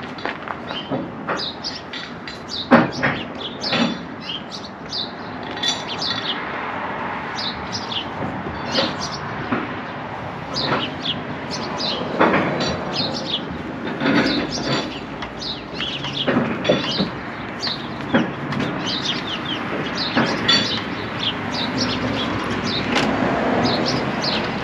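Small birds chirping, with a few sharp knocks, the loudest about three seconds in.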